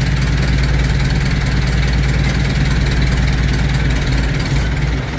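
Heavy-duty lathe running: a loud, steady low machine hum with a broad mechanical whirr above it, the low hum thinning a little near the end.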